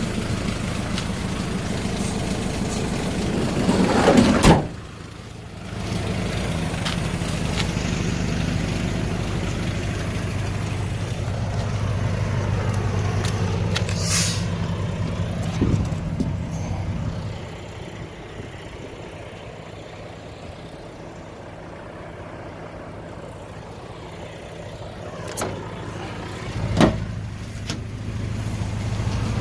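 Hyundai Grace van's 2.5-litre turbo diesel engine running steadily, with a loud thump about four seconds in, a sharp click midway and two knocks near the end.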